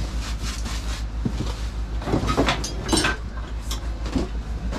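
A steady low machine hum with an even pulse, with scattered knocks and clatter of things being handled, the loudest cluster about two to three seconds in.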